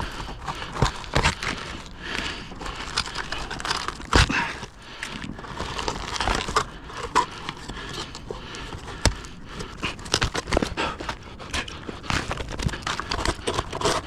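Close rustling and crinkling handling noise with many irregular sharp knocks and scrapes, from roofing work on the roof.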